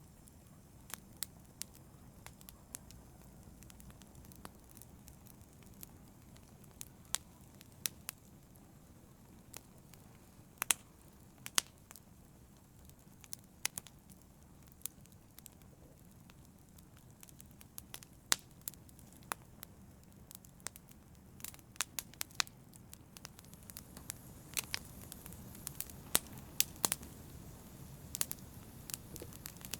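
Wood fire burning in a fireplace: irregular sharp crackles and pops over a low steady rumble, the pops coming more often in the second half.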